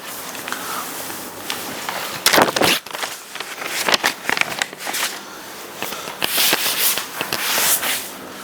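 Scratchy rubbing strokes of writing by hand, a pen or marker moving across the writing surface in short irregular strokes, the longest about two seconds in and again near the end.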